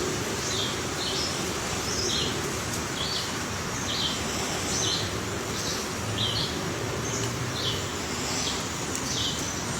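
A bird calling with short, high chirps, about one or two a second and irregularly spaced, over a steady background hiss.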